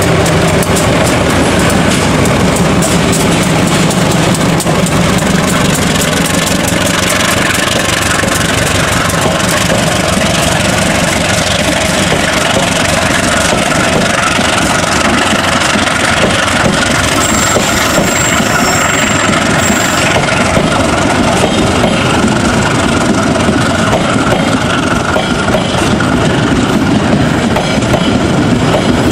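Diesel-electric locomotive pulling away with a departing passenger train, its engine running under load for the first several seconds. Then the steady rumble and wheel clatter of passenger coaches rolling past close by.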